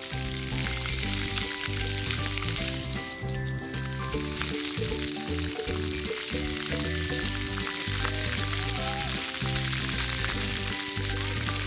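Splash pad water jets spraying and splattering onto the ground in a steady hiss, with background music playing.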